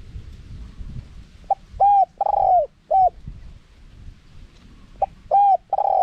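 Spotted dove cooing: a phrase of four coos, the third drawn out longer than the rest, given twice about three and a half seconds apart.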